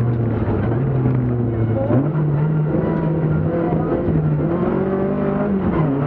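BMW 2002 Ti rally car's four-cylinder engine running under load through a bend. The engine note steps up sharply about two seconds in and again near the end while road speed falls: downshifts.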